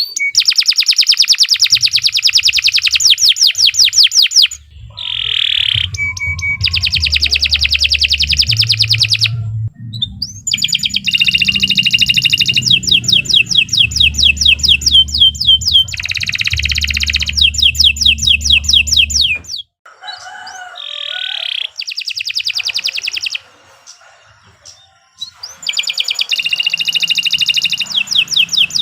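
Domestic canary singing loud, long phrases of fast trills, rapid runs of repeated sweeping notes, with brief pauses between phrases. A low hum runs underneath through the middle of the song.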